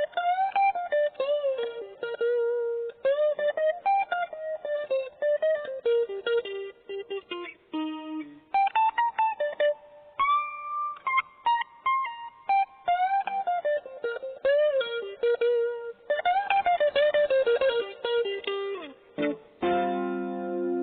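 Cheap maple-body guitar playing a single-note melody with string bends. Near the end it strikes a chord that rings on.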